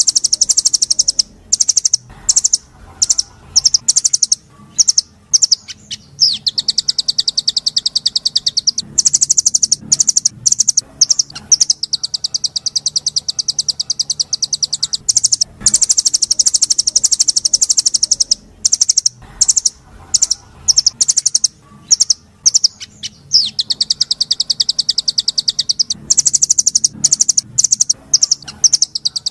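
A small songbird's high-pitched song: long, very fast rolling trills lasting two to three seconds each, broken up by stretches of sharp, staccato chip notes.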